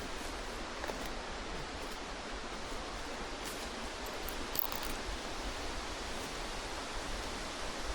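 Steady, even outdoor background hiss with a faint click about four and a half seconds in.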